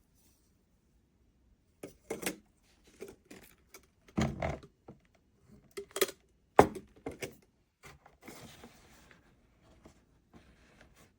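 A series of separate knocks and clatters from hard objects being handled, starting about two seconds in, with a heavier thud about four seconds in and the loudest knock a little later. A short soft rustle or hiss follows a little after eight seconds.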